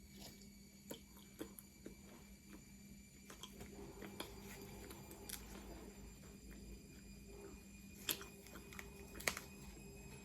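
Close-miked eating: faint chewing with small crisp clicks and crackles, and two sharper crunches near the end, over a steady low electrical hum.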